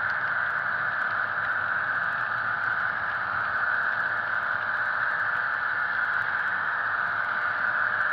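HO-scale model train running, its Soundtraxx Tsunami sound decoder playing the diesel locomotive's engine sound through a tiny onboard speaker, thin with little bass. The sound is steady throughout, with no change in pitch or level.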